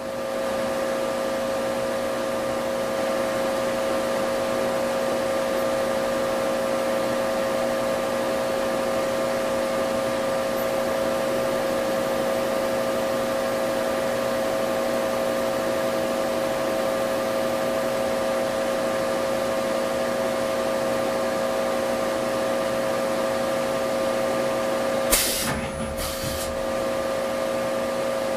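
Hankook VTC-85R CNC vertical turning center running under power, a steady multi-tone machine whine over hiss, as with its live milling spindle at work. Near the end two short loud bursts of noise about a second apart cut across it.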